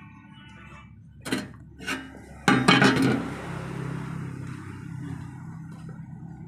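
Metallic clanks and clinks, like metal tools or parts striking each other: two single knocks, then a loud cluster of clatter about two and a half seconds in, followed by a steady low hum.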